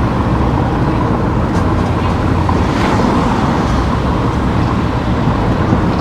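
Steady road noise of a car being driven: a constant low rumble of engine and tyres on the road.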